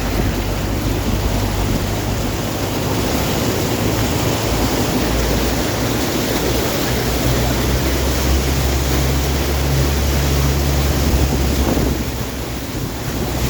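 Fast-flowing floodwater rushing across a road, a loud steady noise, with wind buffeting the microphone as a low rumble.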